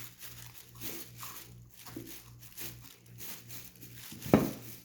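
Faint rustling and handling of a car side-mirror base and its wiring harness as the wires are fed through the door, over a steady low hum, with one sharp knock about four seconds in.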